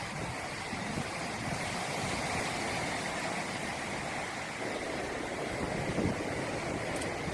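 Rough sea surf washing and breaking on a sandy beach in a steady rush, with wind buffeting the microphone in gusts, strongest about six seconds in.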